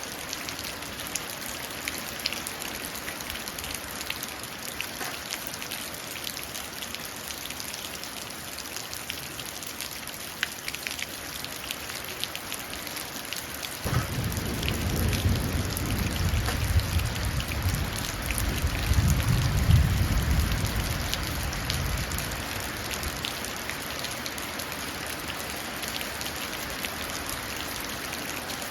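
Steady rain falling into a puddle, with many small drop splashes. About halfway through, a low rumble of thunder comes in suddenly, swells, and fades out over about eight seconds.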